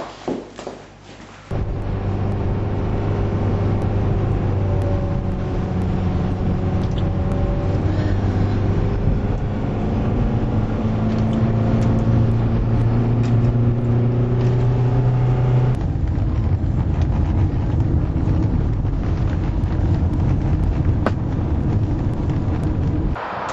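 A few short knocks, then a car engine comes in abruptly and runs steadily, its pitch drifting gently up and down as if driving. Its sound changes about two-thirds of the way through and drops away just before the end.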